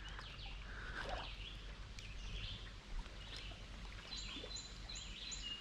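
Small birds chirping and calling, ending in a run of four quick high notes repeated evenly, over a steady low rumble.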